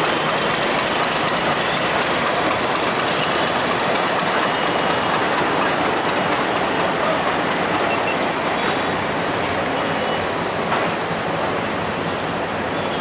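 Passenger train of PT INKA-built coaches rolling past, a steady, loud noise of wheels running on rails that eases slightly near the end.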